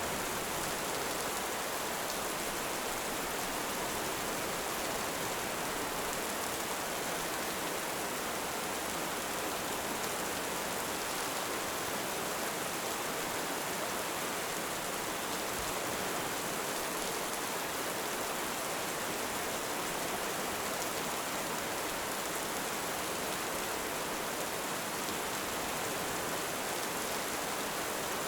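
Heavy rain falling steadily, an even hiss with no thunder or sharp cracks standing out.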